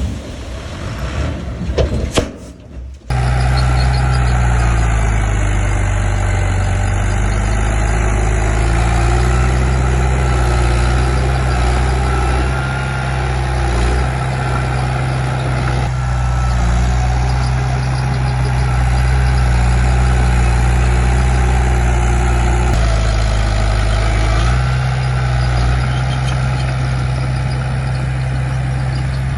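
Heavy diesel engine of earth-moving machinery running steadily, its note dipping briefly and then settling back about two thirds of the way through. Before that, in the first three seconds, there is a rougher, noisier rumble that cuts off suddenly.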